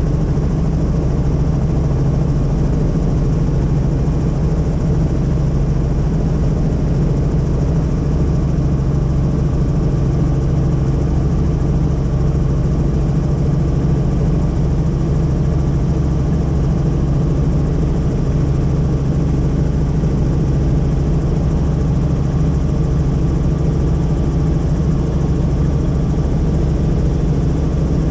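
Helicopter in flight heard from inside the cabin: a loud, steady drone of rotor and engine with a low hum.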